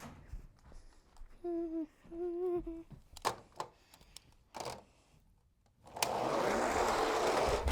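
A voice hums two short notes and there are a few small clicks. Then, about six seconds in, two 1/64-scale die-cast monster trucks start a steady rattling rush as they roll down a plastic jump track.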